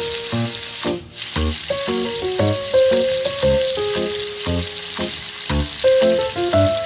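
Pork ribs sizzling in a hot wok, a steady frying hiss, under background music with a melody and a low beat about once a second. Both drop out briefly about a second in.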